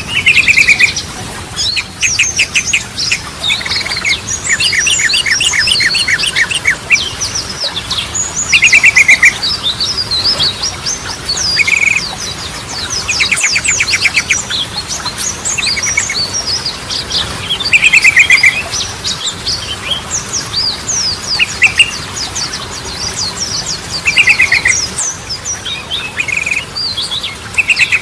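Sooty-headed bulbuls (trucukan) singing, with short fast trills every few seconds mixed with a busy run of quick high chirps.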